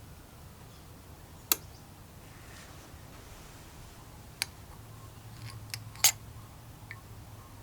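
A few sharp clicks and taps of small metal parts or hand tools being handled at a workbench: about five in all, the loudest about six seconds in, over a low steady hum.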